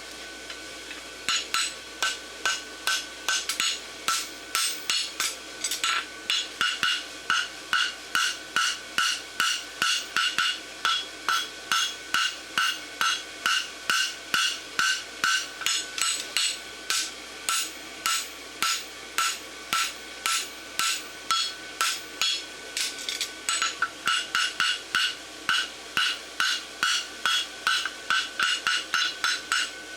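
Hand hammer striking hot steel bar on an anvil, about two to three blows a second with a ringing tone after each, as a farrier forms a horseshoe bar. The blows start about a second in and pause briefly a little over two-thirds of the way through.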